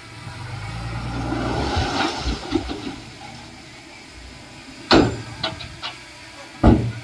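Diesel engine of earthmoving machinery swelling up over the first two seconds, then easing back. Two short, loud bursts follow, about five seconds in and near the end.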